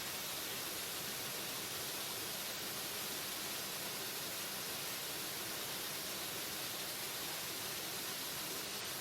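Waterfall: a steady, unbroken rush of falling water, heavy on the hiss.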